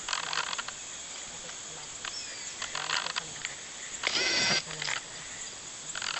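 Rainforest ambience: a steady high insect buzz, with a few short animal calls. The loudest is a pitched call about four seconds in.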